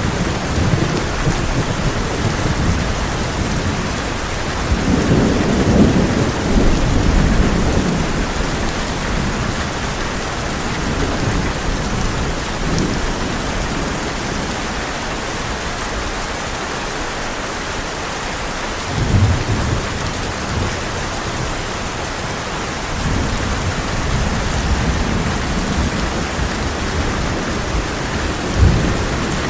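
Heavy rain drumming steadily on a tin roof, with rolling thunder: a long rumble about five seconds in, a shorter one at about nineteen seconds, and a sharper clap near the end.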